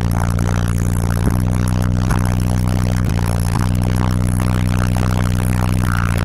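Car engine idling steadily, heard from inside the car: an even low hum that holds one pitch throughout. A few light clicks and rustles of paper pages being handled sound over it.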